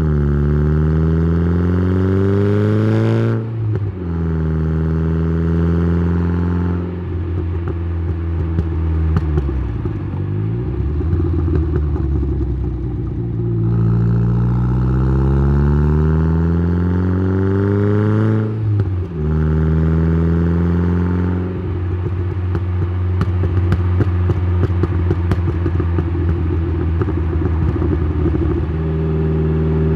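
Turbocharged Saab B204 2.0-litre four-cylinder with a TD04-19T turbo, heard through its 3-inch downpipe and Simons muffler: it accelerates with a rising pitch until a gear change about three seconds in, holds a steadier note, then pulls up again to another shift near nineteen seconds. Between about 22 and 28 seconds the exhaust note is broken by rapid crackling.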